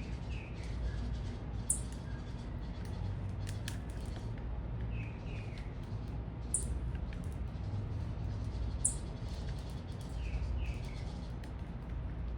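Small birds calling: a few sharp, very high chips and pairs of short falling notes that come back about every five seconds, over a steady low rumble.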